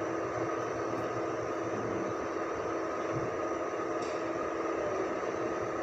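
2005 Ford Expedition's V8 engine running steadily at idle, an even hum with a constant pitch.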